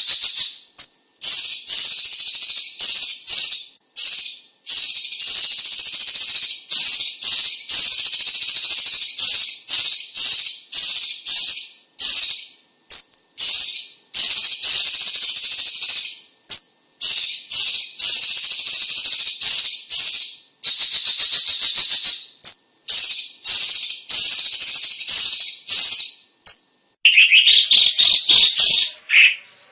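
Cucak cungkok songbird singing loud, dense, rapid chattering phrases high in pitch, each a second or more long, one after another with short breaks and brief single notes between. Near the end the song shifts to lower, harsher notes.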